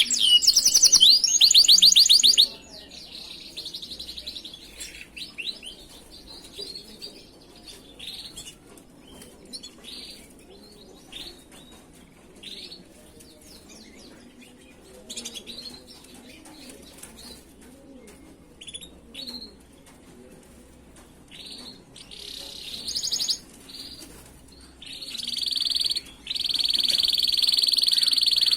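Domestic canary singing: a loud rapid trill for the first couple of seconds, then softer scattered chirps and short notes, and from about 25 s a loud, long, steady high-pitched roll.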